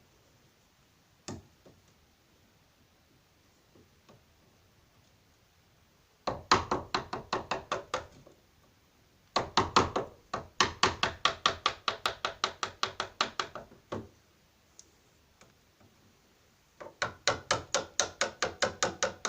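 Chisel being struck with a hammer in quick runs of sharp knocks, about six a second, cutting a recess into the wooden door edge for a deadlock. There is one lone knock about a second in, then three runs of knocks.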